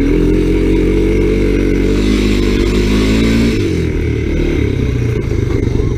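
Honda ATC three-wheeler engine running hard as the machine slides through snowy turns, its note held fairly steady for about three and a half seconds, then easing off to a rougher, uneven running.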